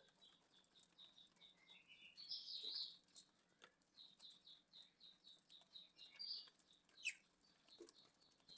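Budgerigars chirping faintly: a run of short, high chirps about three a second, with a louder rising call about two seconds in and a quick falling call about seven seconds in.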